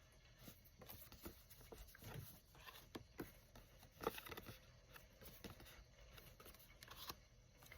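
Near silence with faint paper rustling and a few light taps as paper tags with metal corners are handled.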